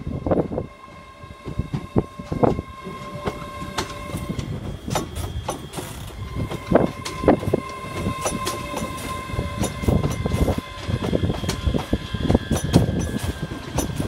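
A train moving slowly through the station. Its wheels make irregular clicks and knocks over rail joints and points, over a low rumble and steady high whining tones.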